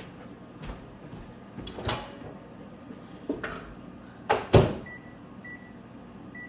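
Kitchen knocks and clunks, the loudest a double clunk of a microwave door being shut about four and a half seconds in, then three short high beeps as the microwave's keypad is pressed.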